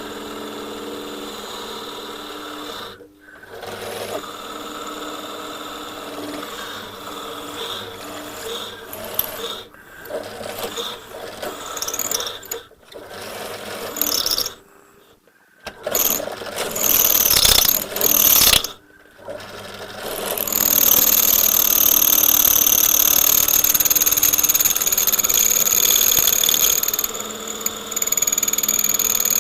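Electric drill with a cobalt bit running and grinding against very hard metal, stopping and starting several times. From about two-thirds of the way through, a steady high-pitched whine sets in: the bit is making little headway.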